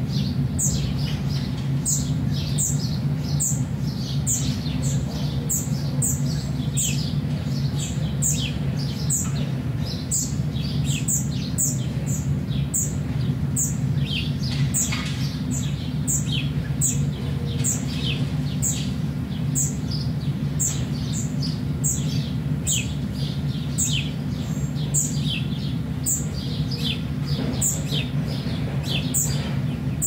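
Birds chirping: short, high, falling notes repeated steadily, about two a second, with fainter calls between. Under them runs a steady low hum.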